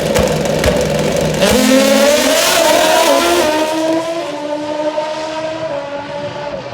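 Top-fuel V-twin drag motorcycle engine running low, then launching about a second and a half in. It revs loudly with a rising pitch, then the pitch steps down and the sound fades as the bike pulls away down the track.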